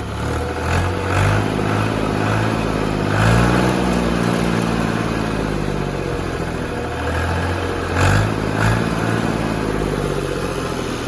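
Fiat 480 tractor's diesel engine running just after starting, its speed rising and falling a few seconds in and revving briefly again about eight seconds in. It is in sound running order.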